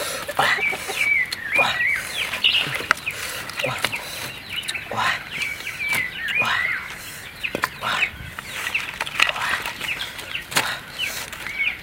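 Birds chirping: many short, high chirps following one another, with a few sharp clicks or snaps among them.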